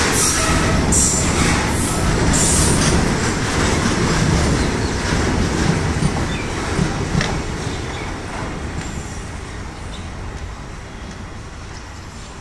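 Freight train of tank wagons rolling past on the rails: a steady rumble of wheels with rhythmic clacks over the rail joints. The sound fades away through the second half as the end of the train recedes.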